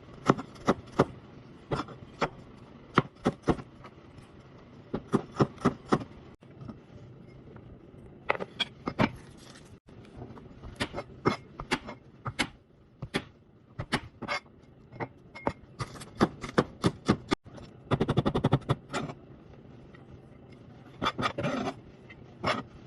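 Kitchen knife chopping vegetables (onion, garlic, ginger, bell peppers) on a cutting board: sharp strikes in irregular runs, with a quick burst of rapid chops about 18 seconds in.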